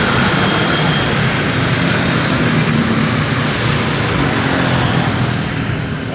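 Jet airliner engines running with a loud, steady rush and low rumble; the high hiss thins out about five seconds in, as the aircraft moves away.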